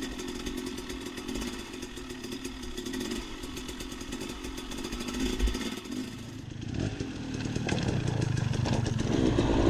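Dirt bike engine running at low revs, growing steadily louder over the last few seconds.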